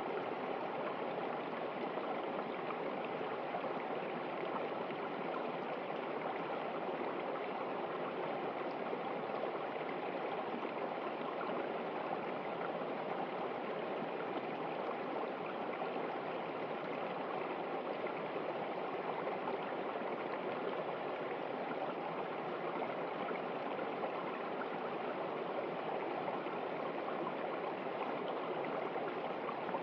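River water running and splashing steadily over rocks, an even rushing sound with no breaks or changes.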